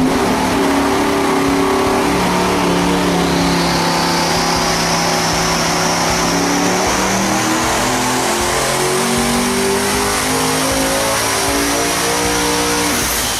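Devel Sixteen's turbocharged V16 engine making a full-throttle dyno pull, its pitch climbing steadily toward about 6,900 RPM over some thirteen seconds, with a high turbo whine rising alongside. It lets off shortly before the end.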